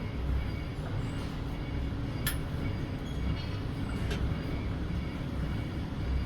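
Workshop machinery running with a steady low rumble, broken by two sharp clicks about two and four seconds in.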